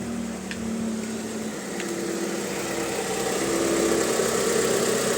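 Mitsubishi 4G64S4M 2.4-litre inline-four petrol engine idling steadily and smoothly, a little louder from about two seconds in; the engine is freshly rebuilt and run in.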